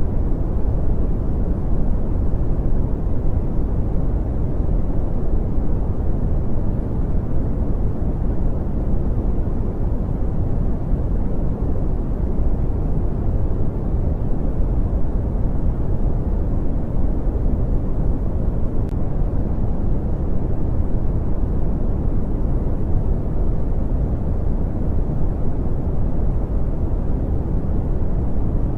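Steady brown noise: a constant, deep rumbling hiss weighted toward the low end, with no changes.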